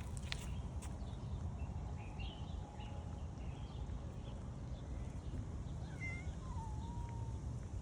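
A domestic cat meowing once, a short call that dips and then holds its pitch, about six and a half seconds in, over a steady low rumble with a few clicks near the start.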